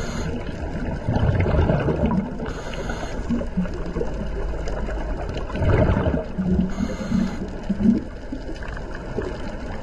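Underwater bubbling and gurgling from a diver's breathing, with low surges of bubbles and a short hiss about every three and a half seconds.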